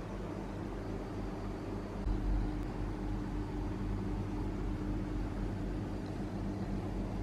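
Steady low electrical hum over a hiss, with a brief swell in the lowest hum about two seconds in.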